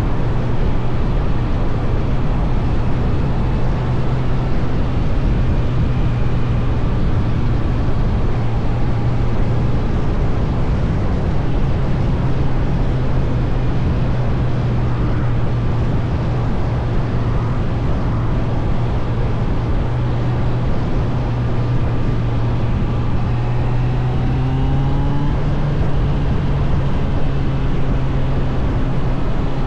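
Suzuki GSF 600 Bandit's air/oil-cooled inline-four engine running steadily under way, its note dipping briefly about a third of the way in and rising a little near the end.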